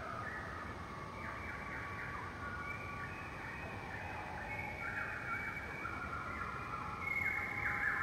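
A flock of birds chirping in a dense, continuous chorus of overlapping calls, many of them short downward-sliding notes. It grows a little louder near the end.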